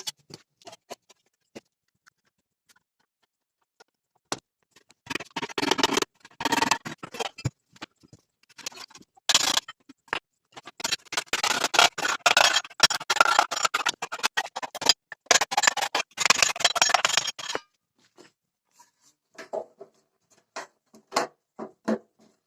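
Rapid abrasive scraping strokes on the rusty sheet-metal wing of a ZAZ car, in two long spells with a short pause between, amid scattered light clicks and taps.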